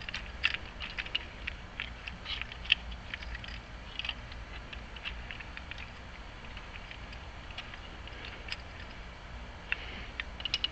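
Small, irregular clicks and ticks of lock hardware being handled and worked on during a rekey, thickest in the first few seconds and again near the end, over a faint steady low hum.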